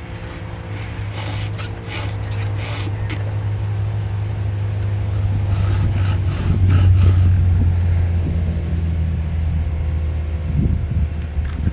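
A steady low mechanical hum throughout. Over it, short runs of quick rasping strokes from a round file sharpening the cutters of a chainsaw chain, about a second in and again around six seconds.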